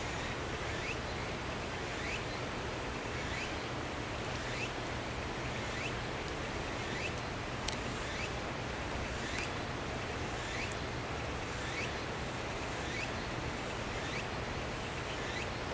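Outdoor ambience: a steady hiss with a faint, short rising chirp from a small animal repeating about once a second, and a single sharp click about halfway through.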